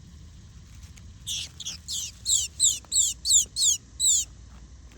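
A bird calling: a quick series of about nine short, high-pitched notes, each sliding downward, about three a second, starting a little over a second in.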